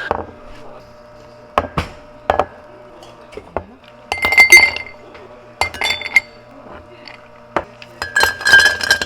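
Glassware clinking: scattered sharp clinks with short bright rings, bunching into busier runs of clinking about four seconds in and again near the end, over a steady low hum.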